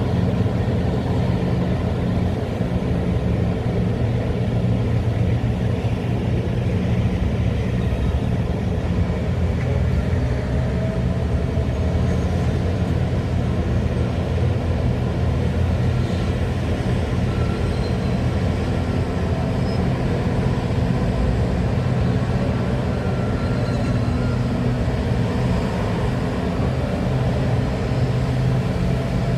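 Heavy diesel engines of large mining excavators and dump trucks running steadily, a deep continuous hum with faint rising and falling whines over it.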